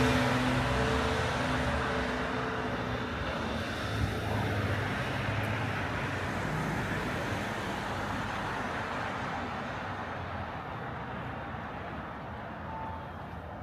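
Street traffic: a motor vehicle's engine hum close by at first, fading over the first few seconds, then a steady wash of road traffic noise that slowly grows quieter.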